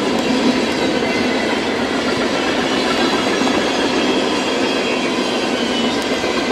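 A freight train's cars rolling steadily past, wheels clattering on the rails, with a faint high wheel squeal.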